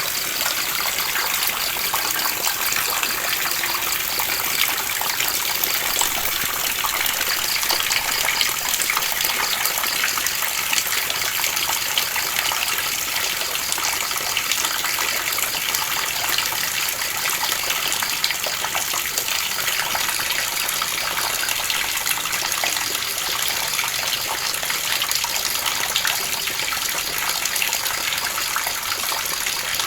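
Steady heavy rain: a dense, even hiss of many drops with a rush of falling water, unchanging throughout.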